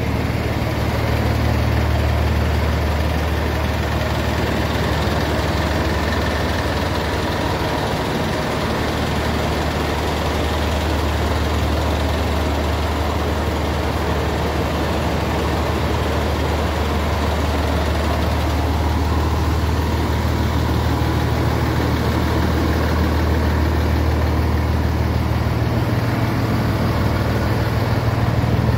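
Scania 111 truck's six-cylinder diesel engine running steadily, a deep even engine note with no change in revs.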